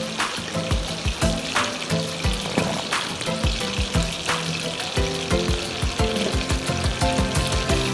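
Chicken pieces frying in a little oil in a pan, a steady sizzle with frequent crackling pops.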